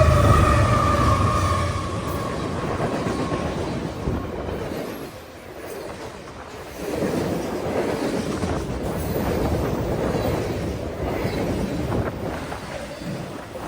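Train running past on the rails with a continuous rumble and wheel noise that eases off about halfway through, then builds again. The tail end of a held chord-like tone, such as a train horn, fades out in the first two seconds.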